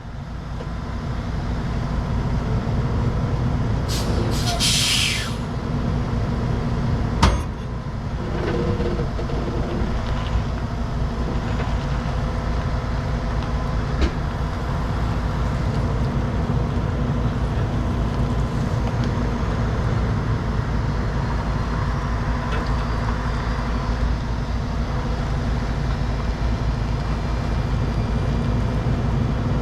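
Heavy diesel truck engine running steadily during a winch recovery pull, with a short burst of air hiss about four seconds in and a single sharp knock a few seconds later.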